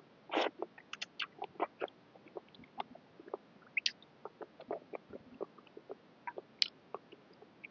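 Close-up eating sounds of someone eating boat noodle soup: irregular wet chewing, lip smacks and mouth clicks.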